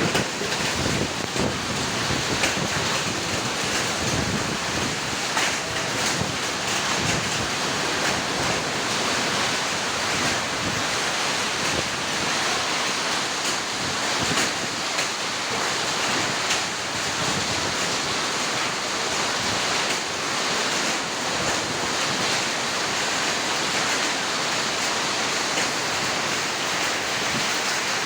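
Heavy rain and hail driven by strong wind: a steady, loud hiss with scattered faint ticks of hailstones striking, and wind buffeting the microphone.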